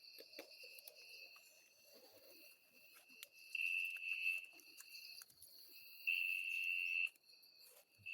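Male cililin, a small songbird, singing: a high, steady, buzzing trill that swells into two loud stretches of about a second each, about three and a half and six seconds in.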